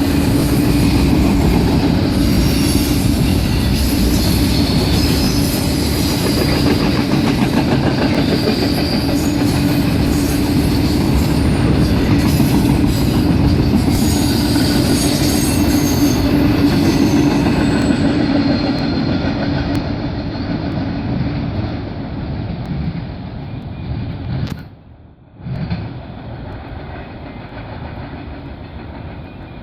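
Passenger-style cars of a long train rolling past on the rails, steady loud rumble with clattering over rail joints, fading away after about eighteen seconds as the train recedes; a brief sudden dropout about twenty-five seconds in.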